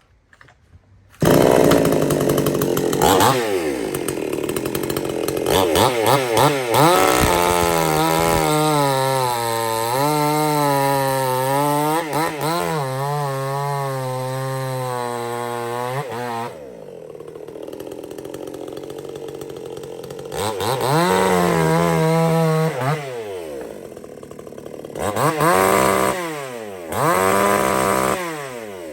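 Supmix 54cc clone two-stroke chainsaw revved to high speed and held there for about ten seconds, its pitch wavering, then dropping back to idle about halfway through. Near the end the throttle is blipped up three times.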